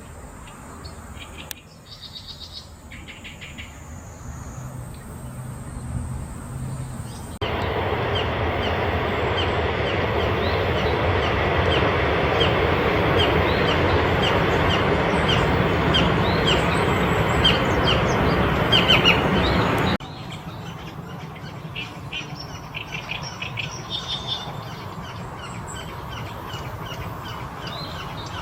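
Small birds chirping outdoors, heard across several spliced clips. In the middle stretch a loud steady rushing noise comes in suddenly and stops suddenly, and under it runs a quick series of short high chirps, about two to three a second.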